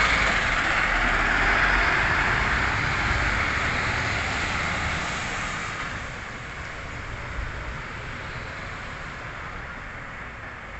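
MAN TGS 26.320 garbage truck running, a steady mechanical noise that fades over about six seconds to a lower, steady level.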